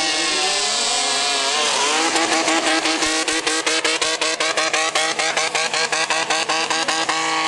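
Mud-racing car engine revving hard through deep mud: the pitch swings for the first two seconds, then holds high with a fast regular stutter, about seven pulses a second.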